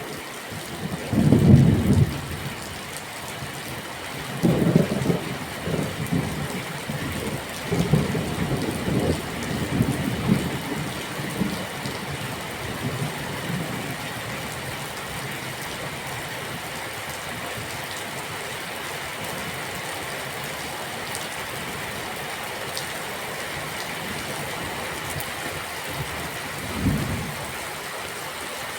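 Steady heavy rain with thunder rumbling over it: a loud roll about a second in, a longer stretch of rumbling from about four to eleven seconds, and a short roll near the end.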